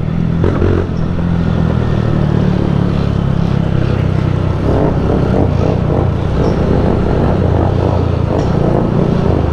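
Motorcycle engine running steadily while riding, a low, even engine note throughout.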